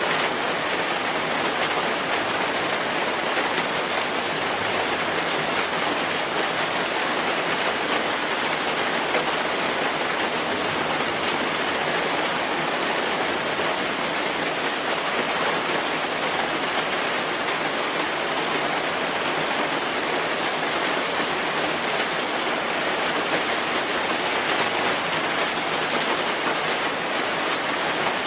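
Steady rainfall: an even hiss of rain pattering on a surface, with fine scattered drop ticks and no change in strength.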